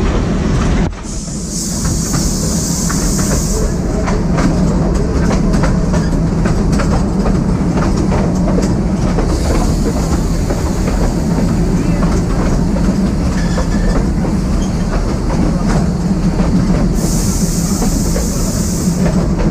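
Matheran toy train, a narrow-gauge train, running with a steady rumble and wheels clicking over the rail joints. Twice, near the start and near the end, a high hiss rises for about two seconds.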